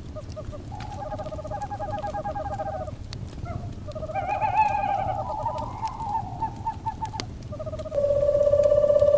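Owls giving quavering, rapidly pulsing hoots over a crackling fire, with sharp pops and a low steady rumble. Near the end a louder, steady humming tone sets in abruptly.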